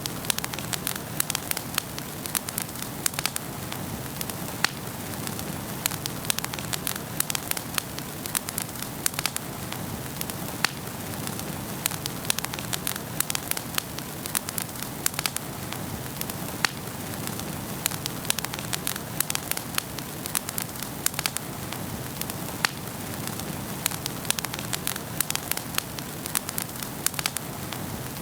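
Wood fire burning in a fireplace, crackling with many sharp irregular pops and snaps over a steady hiss of the flames.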